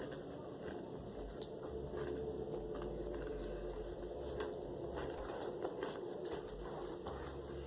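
Close-up chewing of Takis rolled tortilla chips: irregular crisp crunches over a steady low hum.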